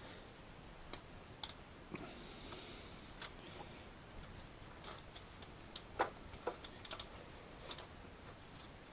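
Socket ratchet clicking in short, irregular strokes while a small 8mm nut on the alternator is done up, with a louder metallic knock about six seconds in.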